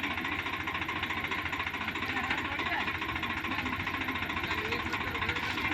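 Swaraj 744 tractor's three-cylinder diesel engine running steadily, its firing a fast, even knocking.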